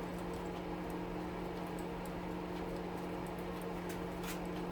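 Steady hum of a stove's fan running in the background, with one faint click a little past four seconds in.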